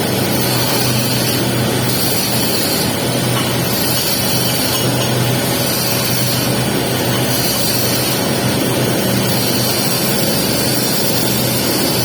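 Welding arc crackling steadily on a pipe joint during the capping pass, with a constant low hum underneath.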